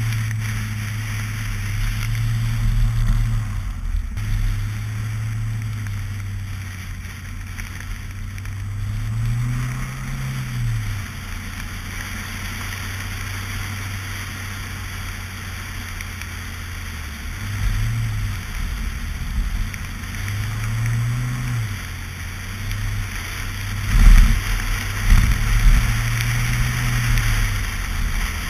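Mazda Miata's four-cylinder engine running as it drives on snow, the revs rising and falling several times, with road and wind noise on the outside-mounted camera. A few loud, low thumps come about three-quarters of the way through.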